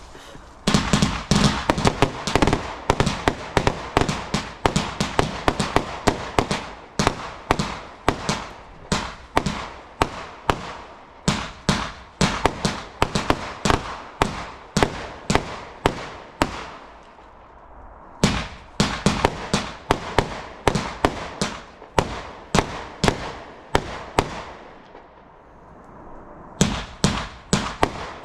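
Fireworks going off in a rapid string of sharp bangs, several a second. The bangs ease off briefly about two-thirds of the way through and stop for a couple of seconds near the end before resuming.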